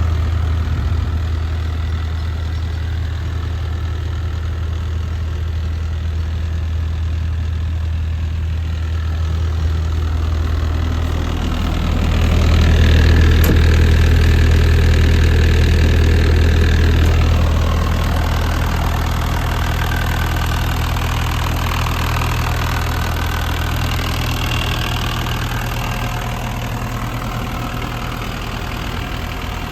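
Diesel engine of a JCB 65R-1 midi excavator running steadily. It grows louder for about five seconds around the middle, then settles back to a steady run.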